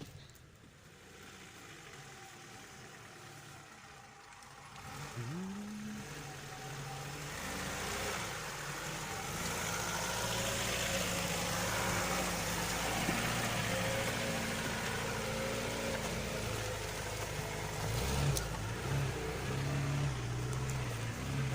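Lada Niva's engine driving off-road: quiet at first, then revving up about five seconds in and pulling under load, growing louder, with a broad hiss over it for a few seconds and further changes in revs near the end.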